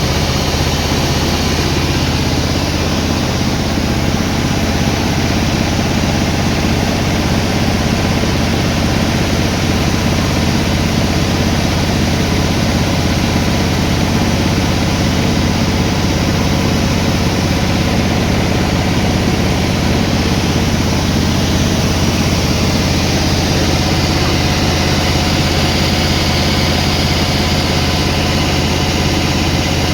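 A sawmill's engine running steadily at an even speed, with a low, constant hum.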